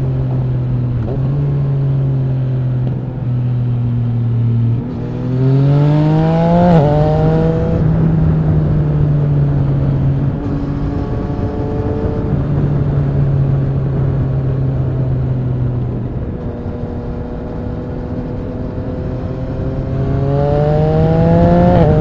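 Yamaha MT-09 SP's 847 cc inline three-cylinder engine running through an Akrapovic racing exhaust under way: the revs climb under acceleration and drop sharply at an upshift about seven seconds in, hold steady, ease off and fall for a few seconds, then climb again to another upshift at the end.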